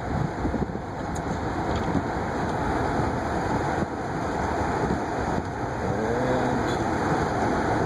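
Steady road noise of a car driving through snow-covered city streets, heard from inside the cabin: engine and tyres.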